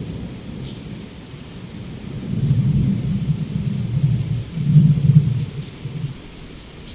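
Heavy rain with a rolling rumble of thunder that swells about two seconds in, is loudest near five seconds, and dies away after six.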